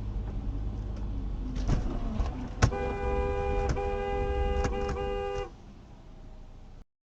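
Car horn sounding three long blasts, each about a second, over steady road and engine rumble from inside a moving car. A sharp knock comes just before the first blast, and the sound cuts off abruptly near the end.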